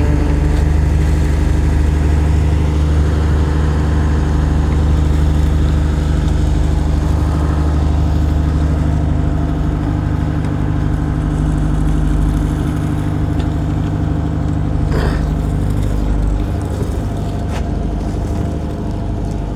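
A fishing boat's engine running steadily, a constant low drone at an unchanging pitch.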